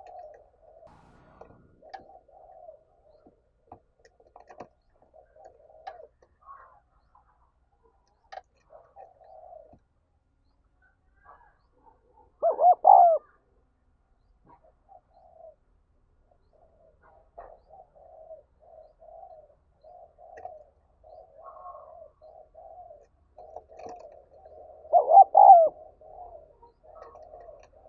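Spotted doves cooing: a steady run of soft, low coos, with two much louder coos, one about halfway through and one near the end.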